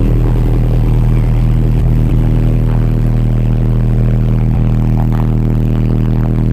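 Eight Orion HCCA 12-inch subwoofers in a sixth-order enclosure playing a loud, steady low bass note that holds unchanged.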